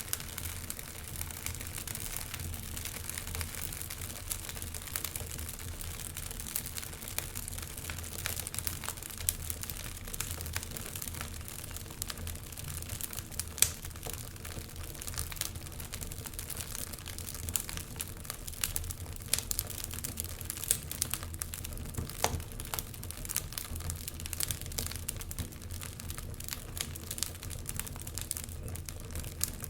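Wood fire burning in a fireplace: continuous crackling with frequent small pops, and one sharper pop about halfway through.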